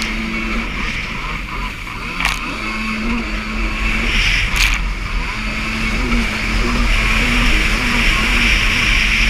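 Jet ski engine running at speed, its pitch wavering up and down, with a steady rush of wind and water. Two sharp knocks come a couple of seconds apart in the first half.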